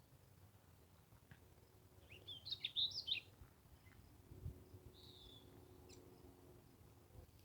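Warbler song: a quick run of high chirping notes about two seconds in, then one short high note a few seconds later.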